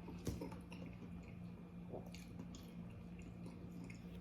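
Faint wet chewing and mouth sounds of someone eating hot casserole, with a few soft clicks scattered through.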